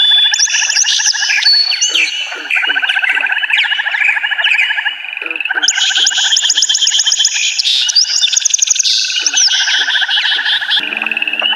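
Dense chorus of forest birds, many overlapping fast trills and chirps. A higher layer of trills joins about six seconds in, and a low buzzing tone sets in near the end.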